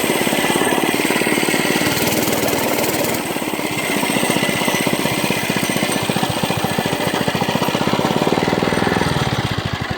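Monster Moto mini bike's small single-cylinder engine running with rapid, even firing pulses, the revs falling off near the end. It has an odd noise that the rider can't place and guesses may come from the governor.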